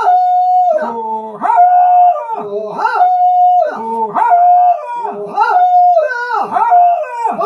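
Dog howling in a run of held notes that slide at their ends, about one a second, sometimes with a lower voice howling in between.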